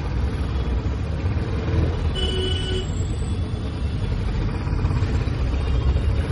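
Royal Enfield Classic 350's single-cylinder engine and exhaust running under way, a steady low rumble.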